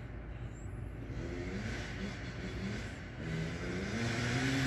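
Dirt bike engine revving, its pitch climbing several times in a row as it accelerates, getting louder near the end.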